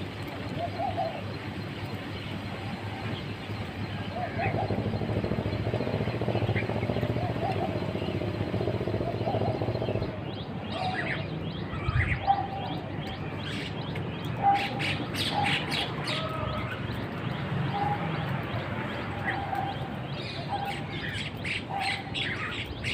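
Small birds chirping: many short, high chirps come thick and fast from about halfway through, with a lower note repeating about once a second. The first half holds mostly a steady low background noise.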